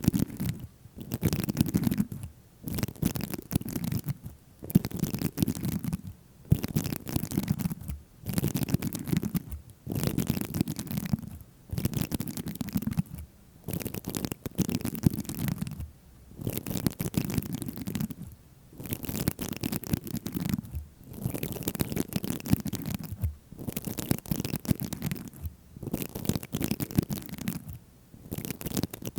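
Close-miked ASMR scratching strokes on a surface, repeated in steady passes of about one and a half to two seconds each, with brief breaks between, about fourteen in all.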